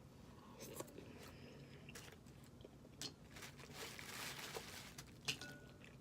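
Snow crab being cracked and eaten: faint crunching and chewing with scattered small clicks of shell.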